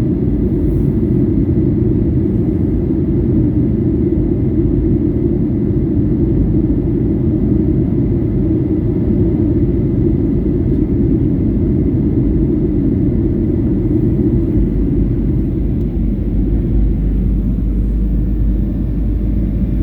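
Airliner cabin noise in flight: a steady, loud low rumble of engines and airflow, with a faint thin steady tone above it.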